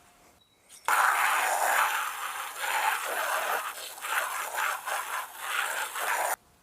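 A hanging plastic bird bath being cleaned out: a loud, rough scraping and rushing noise that starts abruptly about a second in, surges unevenly for about five seconds, then cuts off.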